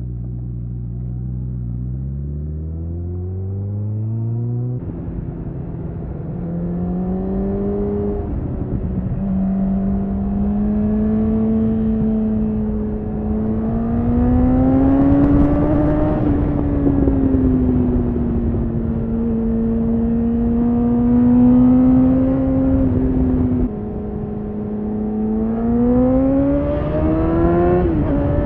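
Honda CBR1000RR Fireblade's inline-four engine heard onboard through a helmet-mounted microphone, accelerating and shifting up. The engine pitch climbs, drops abruptly at upshifts about five, eight and twenty-four seconds in, and holds a steady cruise in between.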